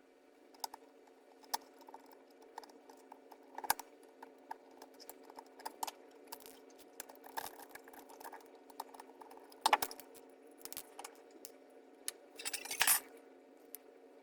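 Small plastic parts of an i-MID display unit being handled and fitted together: scattered light clicks and taps, the loudest about halfway through, and a brief rattle near the end, over a steady background hum.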